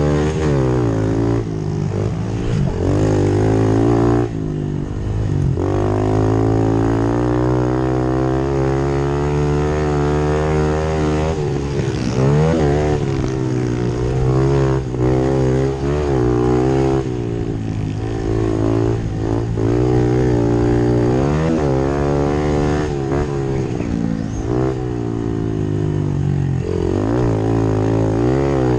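Pit bike engines racing, revving up and falling back over and over as the riders work the throttle.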